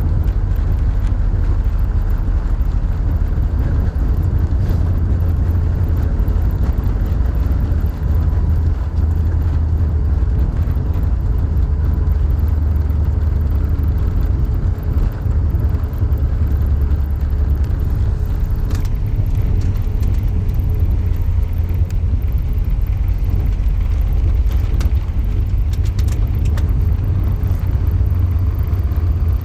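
Steady low rumble of Airbus A380 cabin noise, with a faint steady whine and a few light ticks later on.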